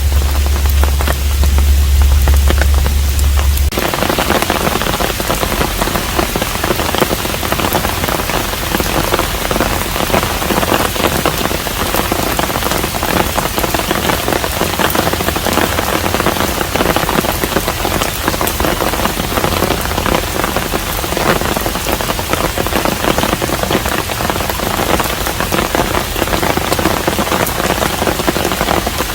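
Steady rain falling, a dense even patter of drops. For the first few seconds a steady low rumble sits under it, cutting off suddenly about four seconds in, after which the rain sounds fuller.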